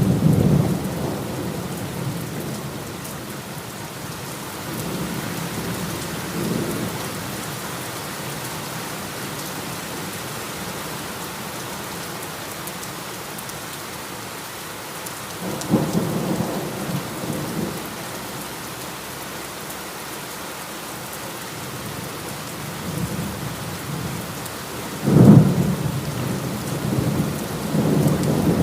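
Heavy rain falling steadily, with thunder rumbling at intervals: a fading rumble at the start, softer rolls about 6 and 16 seconds in, and a sudden loud thunderclap about 25 seconds in that rolls on to the end.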